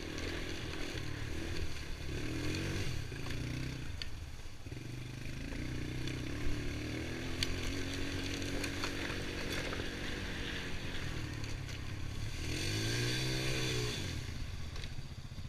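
Honda TRX90 ATV's small single-cylinder four-stroke engine running under throttle, its pitch rising and falling as the throttle is worked. A clear rev up and back down comes near the end.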